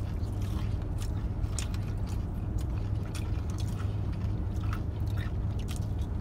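People chewing and biting into fried fast food, with many small scattered crackles and mouth clicks, over a steady low hum.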